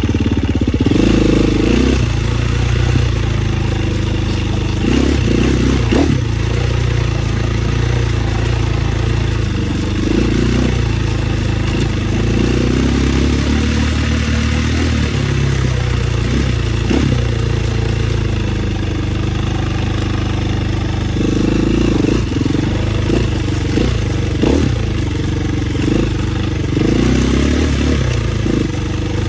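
Dirt bike engine running on a trail ride, its pitch rising and falling with the throttle, with scattered knocks and clatter from the bike over rough ground.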